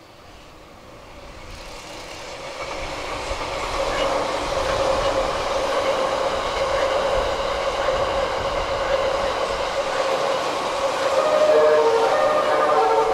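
JR East E001-series TRAIN SUITE Shiki-shima cruise train approaching and passing, its running noise building up over several seconds. Near the end its music horn plays a short tune of stepped notes.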